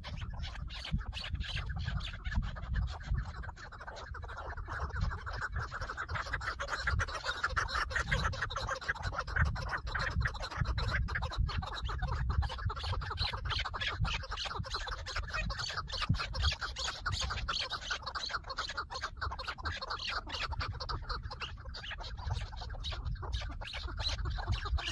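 Birds calling in a fast, continuous clucking chatter over a steady low rumble.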